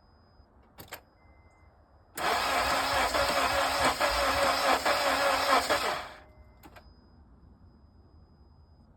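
Starter cranking the engine of a 2006 Honda CR-V on a cold start after it has sat unused for seven years. It cranks for about four seconds, then stops suddenly, and the engine does not keep running. A single faint click comes just before the cranking.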